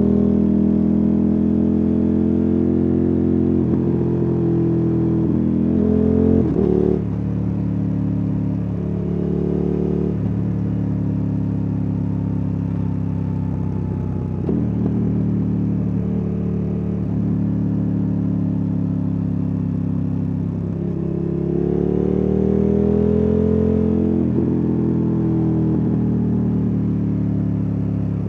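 KTM 1290 Super Adventure S's 1301 cc V-twin engine and exhaust running under way. Its pitch rises and falls with the throttle through the corners, with a short rev and drop about a quarter of the way in and a longer climb and easing-off about three quarters of the way through.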